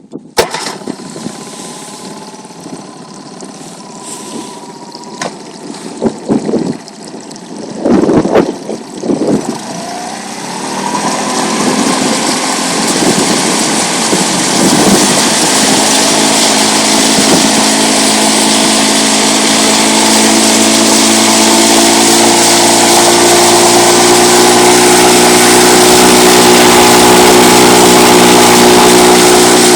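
Honda BF20 four-stroke outboard motor starting on its electric starter, with uneven bursts over the first several seconds, then running steadily and growing louder before holding a steady note. The engine is brand new and being run in.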